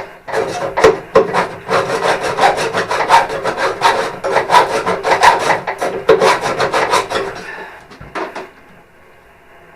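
Hand saw cutting metal on a tractor door hinge: quick, even rasping strokes, several a second, which stop a little before the end, followed by a single click.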